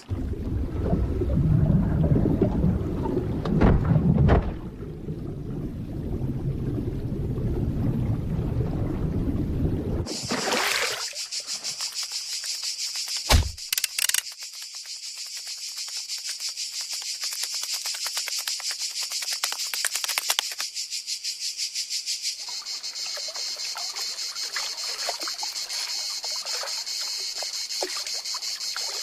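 A low rumbling for about ten seconds, then a steady, rapidly pulsing high-pitched insect-like chirring for the rest, broken by a sharp thump a few seconds after it starts.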